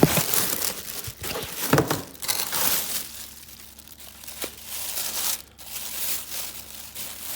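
Packaging crinkling and rustling as it is handled and opened, in irregular bursts that are loudest in the first three seconds and quieter after.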